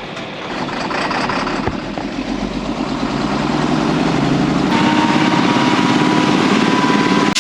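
Honda Monkey 125's engine running just after starting, growing louder over the first few seconds. About two-thirds of the way through the sound changes abruptly and a thin steady whine comes in over the engine.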